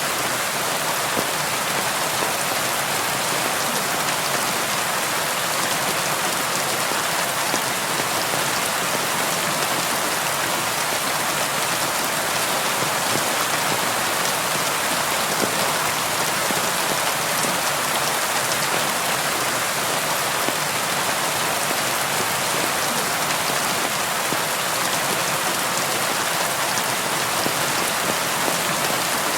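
Steady rain falling: an even, unchanging hiss with a fine patter of drops.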